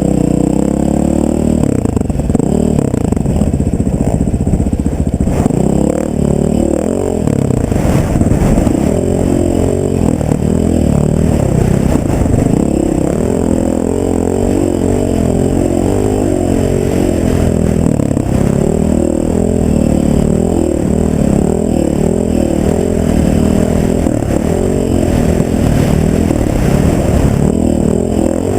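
Off-road vehicle engine running continuously under riding load, its pitch rising and falling with the throttle, with a few short knocks.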